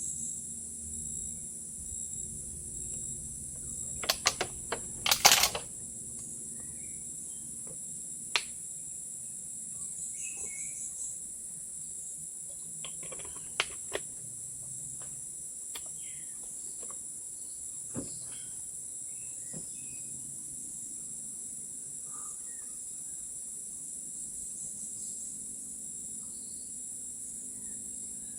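Steady, high-pitched chorus of forest insects such as crickets, with a quick cluster of sharp clicks or knocks about four to five seconds in and a few single clicks later.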